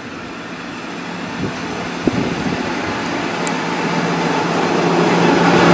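Regional diesel multiple-unit train approaching along the platform and pulling into the station, growing steadily louder, with a steady low engine hum rising out of the rumble in the second half.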